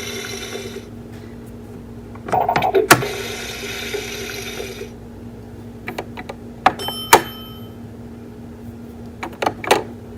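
Fisher-Price Laugh & Learn Servin' Up Fun food truck toy being handled: its plastic buttons and parts click as they are pressed, and its electronic sound effects play, a hissing noise for a couple of seconds and then a bright bell-like ding about seven seconds in, over a steady low hum.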